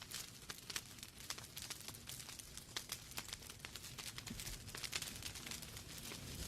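Wood fire crackling in a fireplace: irregular sharp pops and snaps from the burning logs, several a second, over a soft low rumble of the flames.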